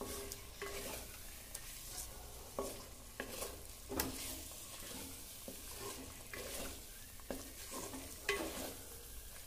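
Onion-and-spice masala frying and sizzling in oil in a clay pot, with a wooden spoon stirring and turning boiled eggs through it: a steady hiss broken by repeated scrapes and knocks of the spoon against the pot.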